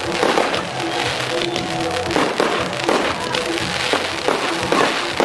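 Fireworks going off in a run of repeated bangs and pops, about two a second, over music playing.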